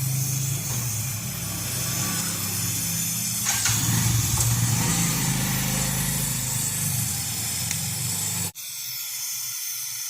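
Brazing torch flame hissing steadily with a low rumble while a refrigerator's copper tubing joint is brazed. About eight and a half seconds in, the rumble drops out and a quieter hiss continues.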